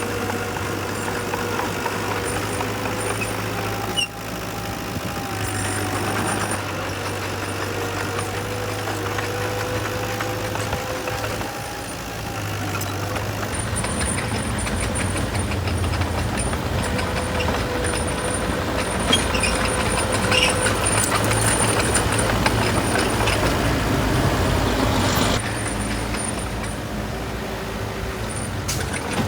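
Heavy diesel engine of earth-moving machinery running steadily. It grows louder from about halfway through, then drops off suddenly a few seconds before the end.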